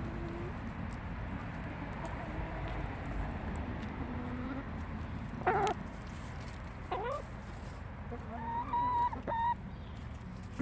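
Hens clucking and calling: soft low murmurs at first, a short call about five and a half seconds in, another near seven seconds, then a longer drawn-out call a little before the end.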